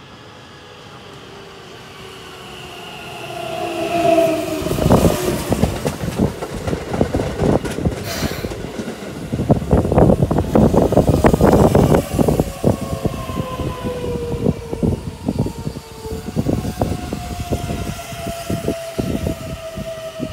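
Keihan 7000 series electric train pulling into a station: a rising approach, then steady wheel clacks over rail joints. Its motor whine falls in pitch as the train brakes to a stop.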